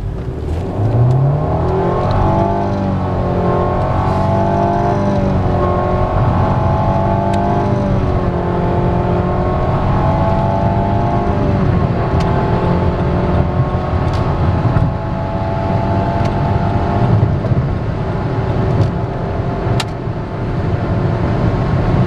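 Nissan Altima's engine accelerating hard through its CVT, heard from inside the cabin: the pitch rises steeply for about two seconds, then holds a steady high-rpm drone near 5,000 rpm while road speed keeps climbing. This is the constant-rpm behaviour typical of a continuously variable transmission, with road and wind noise underneath.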